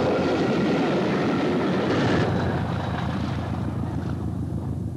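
Diesel-electric multiple unit passing close at speed, its diesel engine and wheels on the rails loud for the first two seconds or so. The noise then drops away, leaving a fainter low engine drone as the train draws off.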